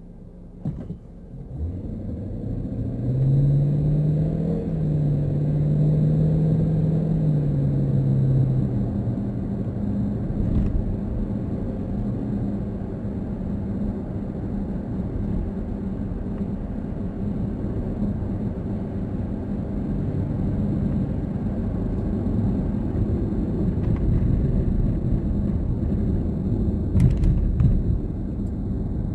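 Car driving in traffic: the engine and tyre rumble swells as the car pulls away a second or two in. The engine note rises, holds, then eases off, and a steady low road rumble carries on after that.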